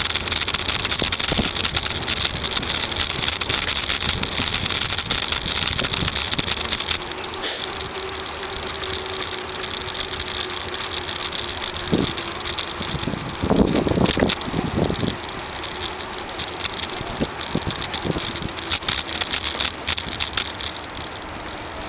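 Ride noise from a compact camera mounted on a moving bicycle: a steady rush with constant small rattling clicks. A low steady hum comes in for a few seconds midway, and a burst of louder knocks follows about two-thirds of the way through.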